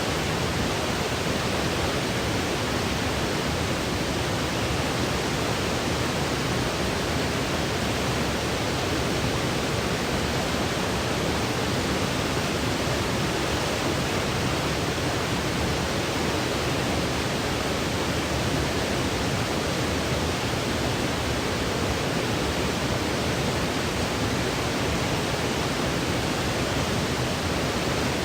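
Steady, unchanging sleep-aid white noise: an even hiss with no rhythm, breaks or other events.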